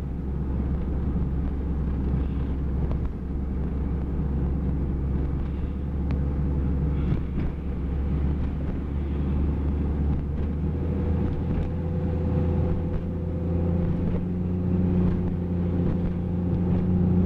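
In-cabin drone of a 1995 Jeep Grand Cherokee's 4.0-litre straight-six and its tyres on a snowy road while driving, steady and low, growing a little louder and higher in the last few seconds.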